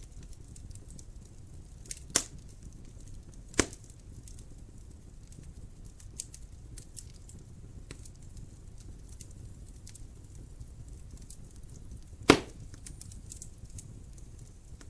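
Wood fire burning in a fireplace: a low steady rumble with scattered small crackles, and three loud sharp pops, about two seconds in, about three and a half seconds in, and the loudest a little after twelve seconds.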